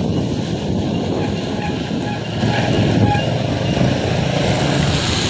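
Steady noise of cycling through heavy rain: wind rumbling on the microphone under an even hiss of rain.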